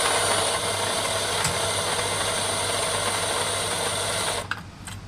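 Electric espresso grinder running for a timed double-shot dose of about four and a half seconds, grinding coffee beans, then stopping, with a short click just after.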